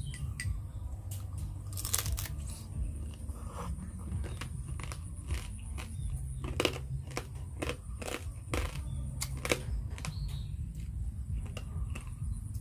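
Crab shell crunching and cracking as pieces of crab are bitten and chewed, a run of irregular sharp cracks, loudest about two seconds in and again through the middle.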